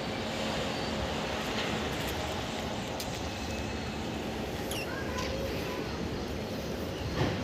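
Freight train of flat wagons carrying tanks rumbling steadily past, with a short high chirp midway and a sharp clank near the end.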